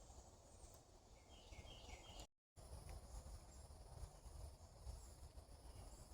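Faint outdoor nature ambience: a bird chirps softly in the first two seconds over a faint steady insect hum and a low rumble. The sound cuts out completely for a moment a little after two seconds in.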